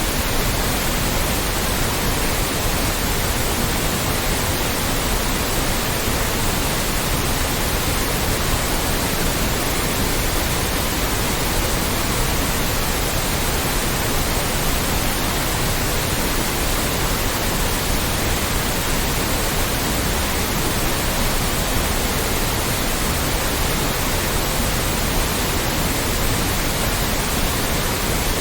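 Extra-loud white noise: a steady, even hiss that never changes.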